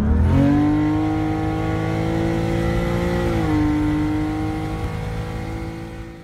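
A car engine revving up and holding high, steady revs. Its pitch dips a little about three seconds in, and it fades away near the end.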